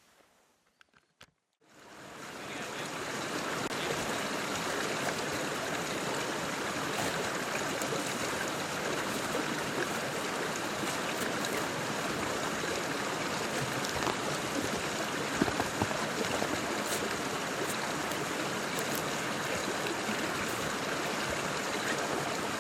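A stream's water running, a steady rushing that fades in after a second or two of near silence and then holds even.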